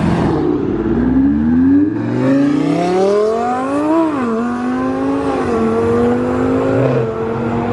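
Sheepey Race twin-turbo Lamborghini Huracán's V10 accelerating hard away, its pitch climbing for a few seconds, then dropping at an upshift about four seconds in and climbing again in the next gear.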